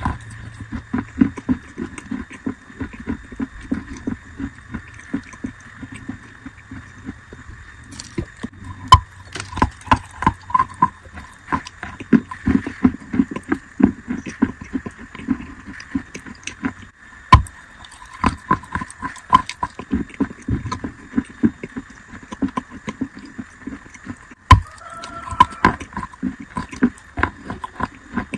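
Wet chalk being bitten and chewed close to the microphone: rapid, irregular wet crunching with a few sharper, louder bites about 9, 17 and 24 seconds in.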